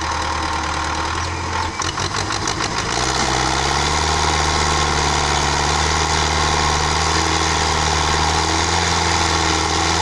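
Belarus 510 tractor's diesel engine running; about three seconds in it rises to a louder, higher-revving steady pull and holds there.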